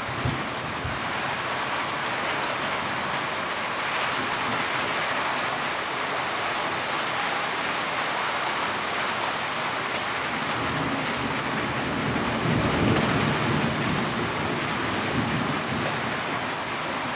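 Heavy rain falling in a steady dense hiss. A low rumble swells underneath about twelve seconds in and fades a couple of seconds later.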